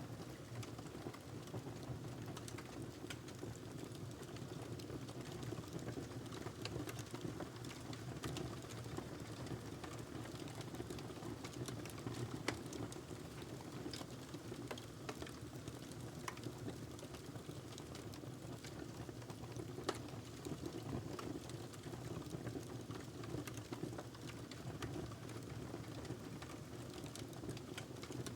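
A log burning in a fireplace: a steady low rush of flame with frequent sharp crackles and small pops, two of them louder, one near the middle and one about two-thirds through.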